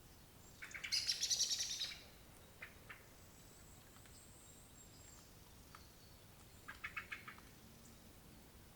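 A bird, most likely a blackcap, scolding with hard ticking alarm calls fired in quick rattling runs: a loud run lasting about a second near the start, two single ticks, then a shorter run about seven seconds in. The calls are the sign of an agitated, angry bird.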